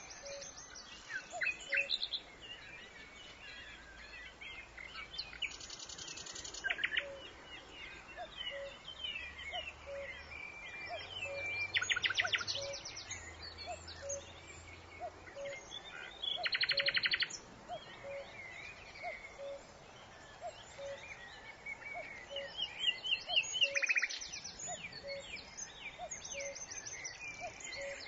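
Several birds singing and calling, with quick chirps and whistles and, every few seconds, a fast trill lasting about a second. Underneath, a soft low pip repeats about once a second.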